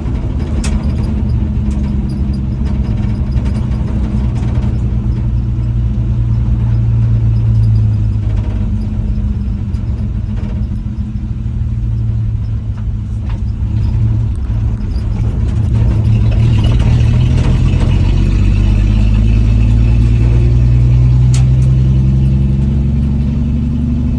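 1967 Dodge D100 pickup's 225 slant-six engine running while driving along. The engine note sags and quietens around the middle, then climbs and gets louder as the truck accelerates in the second half.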